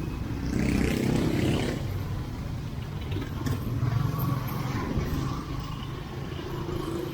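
Street traffic: motor vehicle engines running and passing close by, loudest between about half a second and two seconds in.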